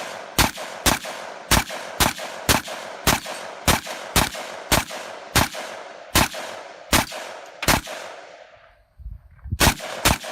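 Arsenal SLR-107F AK-pattern rifle firing 7.62×39 mm rounds in steady semi-automatic fire, about two shots a second. After a short pause near the end, two final shots close together finish off the 30-round magazine.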